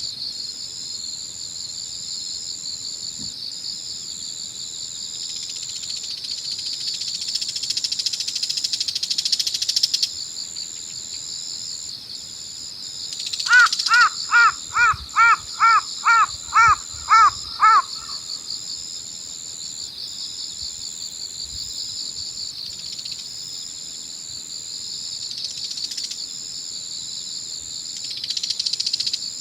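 A crow gives a quick run of about ten caws, a little over two a second, partway through. Under it runs a steady high-pitched chorus of evening crickets and other insects.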